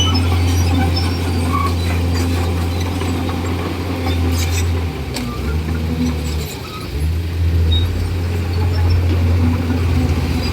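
Komatsu D41E bulldozer's diesel engine running steadily, its pitch sagging and wavering for a couple of seconds about halfway through, as when the engine takes load while pushing. A few short cracks or clanks come just before the dip.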